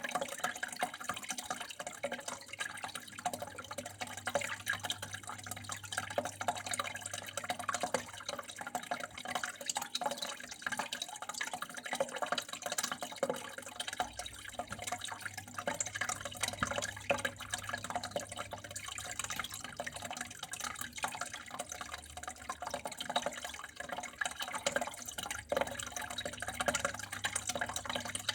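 Water running and dripping steadily, a continuous trickle with many small irregular splashes, like a tap left flowing into a sink or basin.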